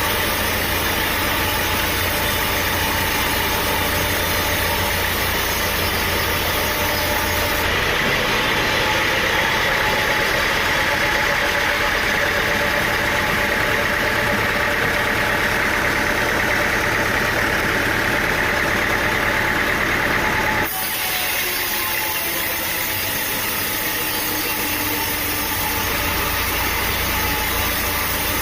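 Sawmill machinery running steadily with an engine-like drone. About eight seconds in a higher, brighter noise joins, and it cuts off abruptly about twenty-one seconds in.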